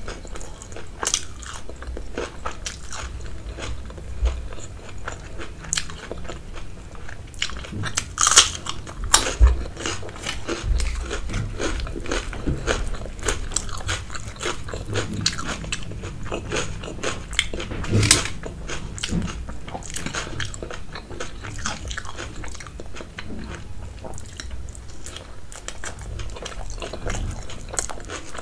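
Close-miked chewing and biting of a person eating rice with kadhi and poori dipped in chole by hand, full of short wet mouth clicks. Two louder bites come about eight and eighteen seconds in.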